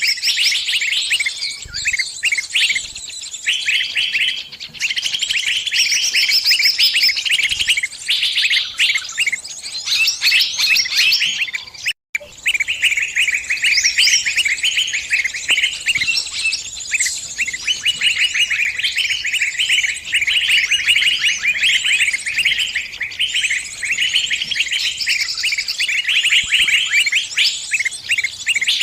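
Small bird giving rapid, continuous high chirping distress calls, the sound of a bird caught in a trap calling for help, with other birds' chirps overlapping. The calling breaks off for an instant about twelve seconds in, then resumes.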